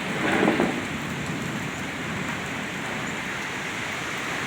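Heavy thunderstorm rain pouring down as a steady, dense hiss, with a brief louder patch in the first second.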